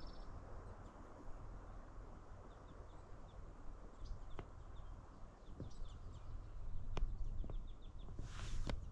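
Small birds chirping in a pine forest, with a run of quick, short, high chirps in the second half over a low steady rumble. A few clicks and a brief rush of noise come near the end.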